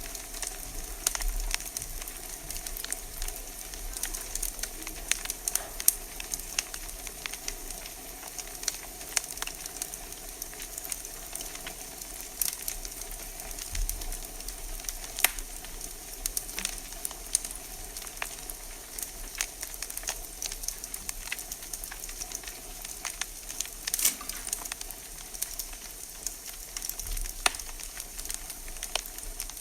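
Wood fire crackling in a fireplace: irregular sharp pops and snaps, a few louder than the rest, over a steady hiss.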